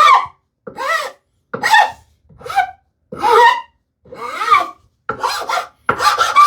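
Hand file being pushed across the edge of a wooden strip to round its corners. It makes about eight separate strokes, roughly one a second, and each stroke gives a whining scrape that wavers in pitch.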